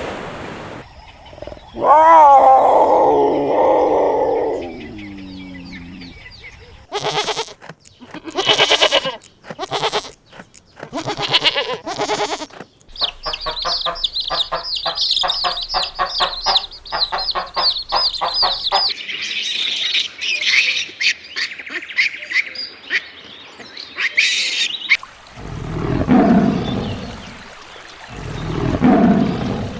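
Farm animals calling one after another. A long wavering call slides downward, followed by short separate calls and then quick high-pitched chirping. Two lower calls come near the end.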